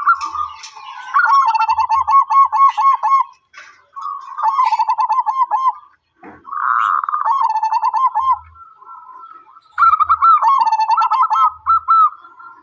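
Zebra dove (perkutut) cooing: several phrases of quick, repeated rolling notes, each phrase a second or two long with short pauses between.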